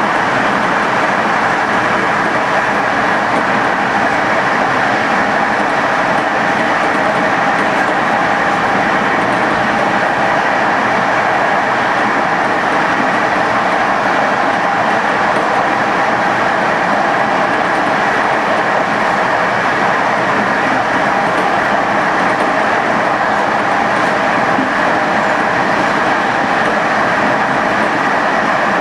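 TLK passenger train running steadily on the rails, an even, loud rolling noise of wheels on track with a faint steady tone in it.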